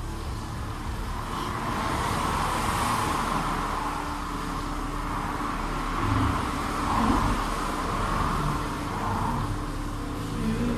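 A motor vehicle's engine running with steady road noise.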